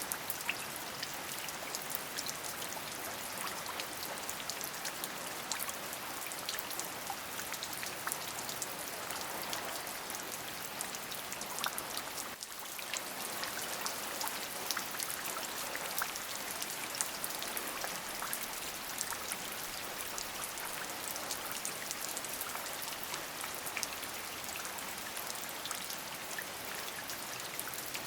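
Steady rain: an even hiss dotted with many separate drops ticking, with a brief dip near the middle.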